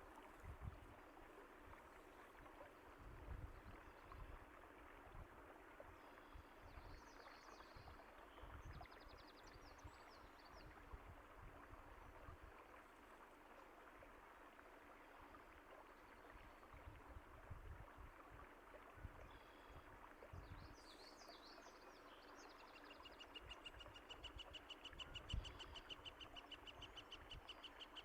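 Running water with a steady soft rush and irregular low thumps, with birds chirping now and then and one bird giving a rapid trill for a few seconds near the end.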